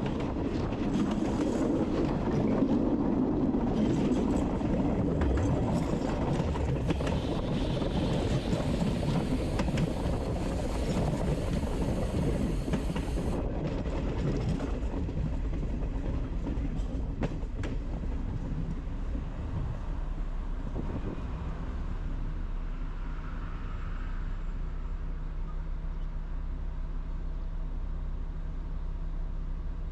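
Train running through the station: a noisy rumble with repeated clicks of wheels on the rails that fades about halfway through, leaving a quieter steady low hum.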